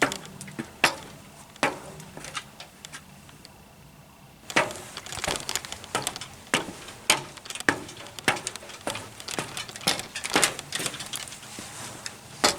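Footsteps crunching along a woodland trail: a few sparse steps, a short lull, then steady walking picks up again about four and a half seconds in.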